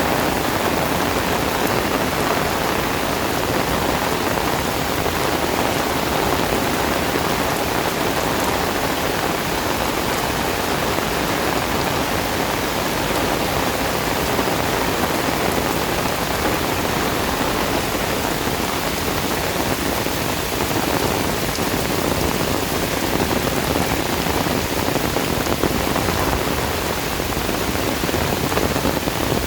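Heavy tropical rain pouring down and drumming on surfaces, a dense, steady hiss.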